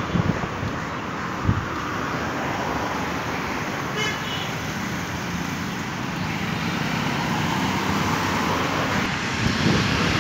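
Steady road traffic noise, with a short horn toot about four seconds in.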